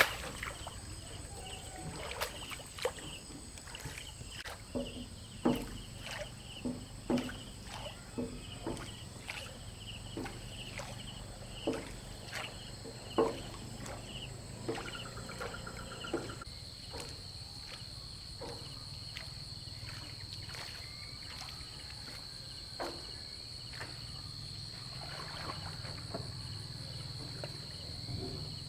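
Irregular knocks and taps, most of them in the first half, over a steady high insect chirring that grows stronger from about halfway in.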